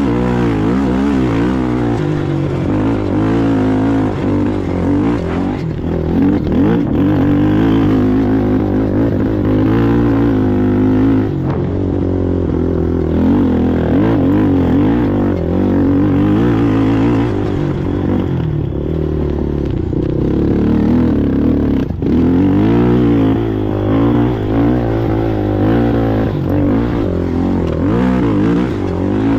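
ATV engine running hard under race load, its revs rising and falling constantly, with a few brief throttle lifts.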